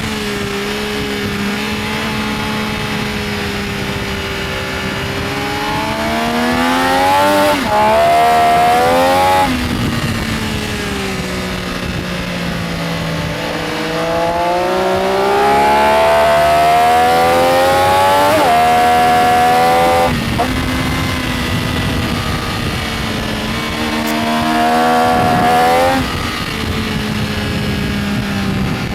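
Benelli Tornado Tre 900's inline three-cylinder engine pulling hard through the gears, its pitch rising with brief dips at each upshift. Between the runs the throttle shuts and the revs fall away for the corners, three times.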